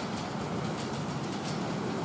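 A miniature railway train approaching but not yet in view: a steady low rumble with faint, quick clicking of wheels running over the track.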